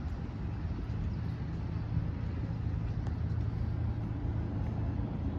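Steady low rumble of a passenger train in motion, heard from aboard a riding car.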